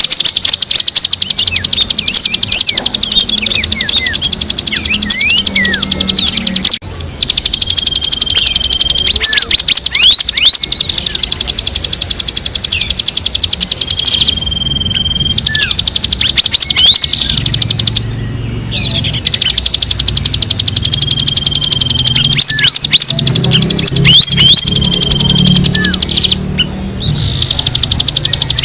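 Recorded birdsong of the kind used as a bird caller: a long, very fast high-pitched chattering trill, laced with quick rising whistled notes and a held whistle that recurs several times. Several short breaks cut the song.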